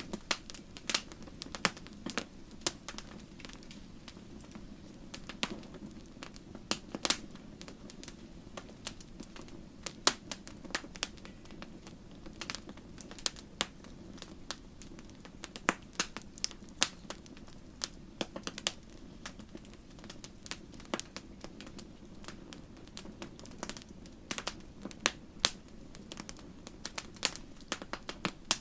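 Wood fire crackling: irregular sharp pops and snaps, several a second, over a steady low rush of the burning flames.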